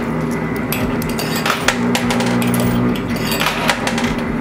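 Coin pusher machine humming steadily, with quarters clicking and clinking against one another at irregular moments.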